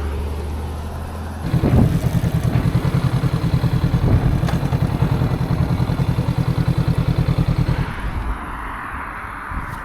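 Motorcycle engine running low and steady, then idling with an even, rapid pulsing beat of about seven pulses a second. About eight seconds in the engine sound stops, leaving a fainter hiss.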